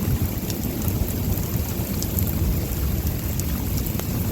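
Rainstorm: rain falling with scattered faint drop ticks over a steady low rumble.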